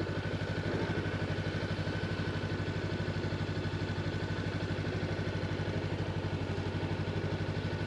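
Honda motorcycle engine idling steadily with an even, rapid pulse.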